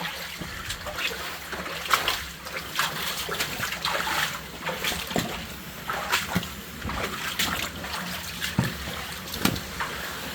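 Shallow water splashing in irregular, uneven splashes as people wade and clamber through it, with trickling water beneath.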